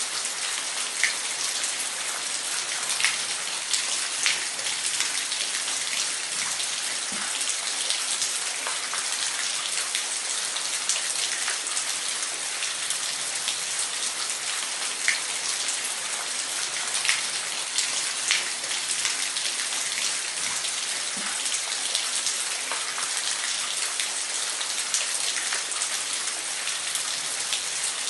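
Waterfall: a steady hiss of falling water, with small droplet splashes scattered through it.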